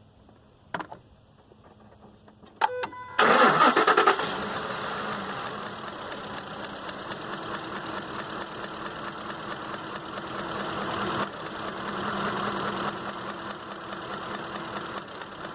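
Ford Expedition's 5.4-litre V8 cranking and catching about three seconds in after a few clicks, flaring briefly, then settling to a steady idle. It is running with a misfire: cylinder 7 is not firing.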